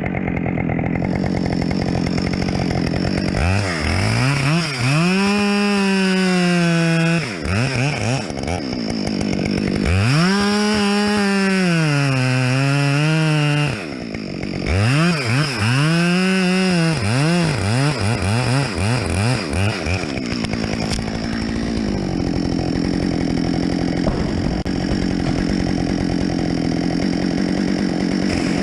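Two-stroke chainsaw revving up and cutting wood in three bouts of a few seconds each, its pitch wavering and dipping under load, then running steadily before it revs again at the end.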